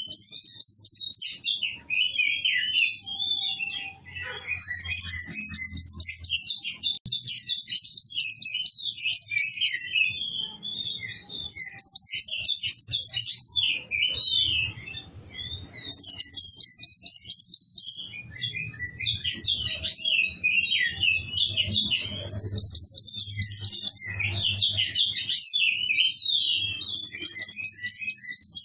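A kowul songbird singing energetically: repeated high, fast rattling trills about two seconds long, alternating with shorter, lower chirping phrases, over a faint low hum.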